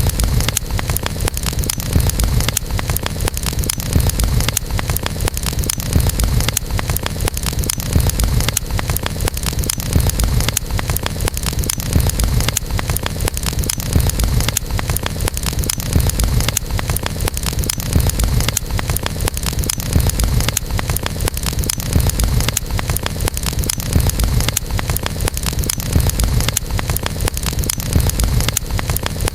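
Campfire burning: a steady low rumble of flames, dense crackling, and sharper pops about every two seconds.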